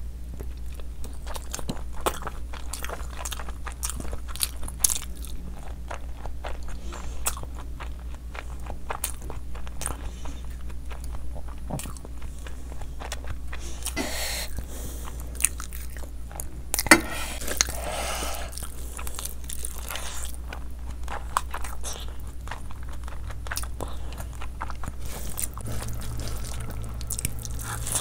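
Close-miked mukbang eating sounds: biting and wet chewing of rice and curry eaten by hand, with many small mouth clicks and smacks. One sharp knock stands out about seventeen seconds in, over a steady low hum.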